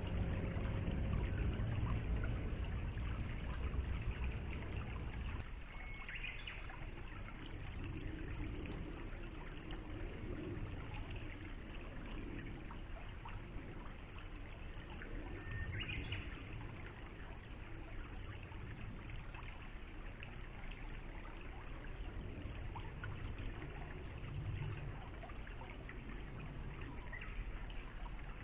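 River water flowing and trickling steadily. A bird gives a short call twice, about six and sixteen seconds in.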